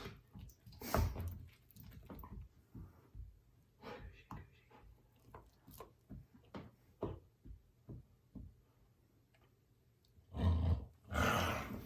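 Dog chewing a treat: irregular crunches and clicks, then a louder noisy scuffle lasting about a second and a half near the end.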